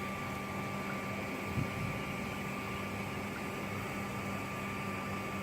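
Modified shop vac (a 'bee vac') running steadily, a continuous hum with a thin high whine over a noisy hiss.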